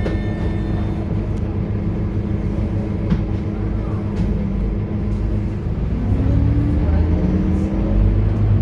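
Scania K230UB bus's five-cylinder diesel engine and ZF automatic gearbox running under way with a steady low rumble. About six seconds in, the engine note starts to rise as the bus accelerates, and it rises again shortly after.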